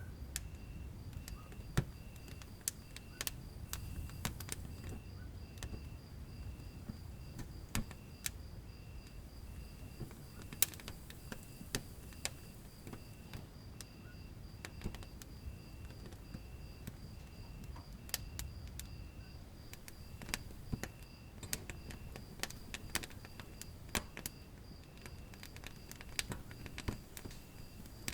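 Fire burning in a fireplace: irregular sharp crackles and pops over a low, steady rumble of flame.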